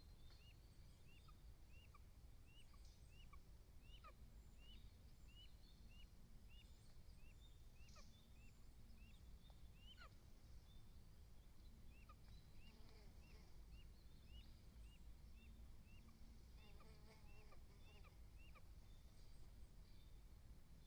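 Faint bird calling: a long run of short, hooked high notes, about two a second, pausing briefly around the middle and stopping near the end, with a lower wavering call overlapping late on. A few sharp clicks fall among the calls, over a steady low rumble.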